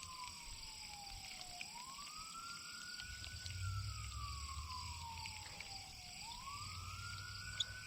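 Distant emergency-vehicle siren in a slow wail, each cycle rising quickly and then falling slowly over a few seconds, nearly two full cycles. A low rumble joins about three seconds in.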